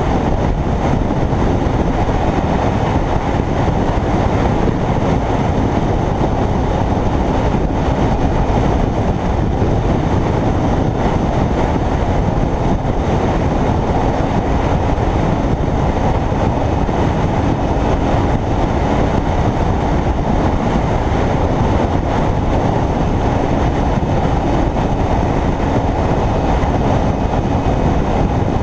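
Steady rush of wind and road noise while riding a Kawasaki Ninja 300 motorcycle at a constant speed, with the bike's parallel-twin engine humming faintly underneath at an even pitch.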